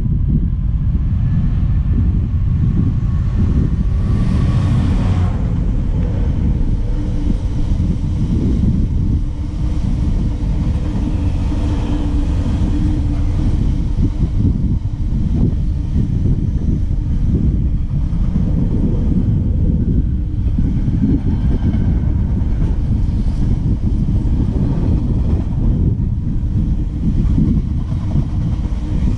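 Train running past on the line, a steady low rumble with faint steady tones above it.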